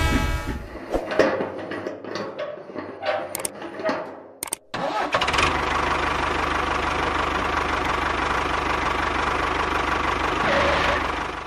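An engine clattering and knocking unevenly for about four seconds, then, after a brief break, running steadily until it cuts off abruptly at the end.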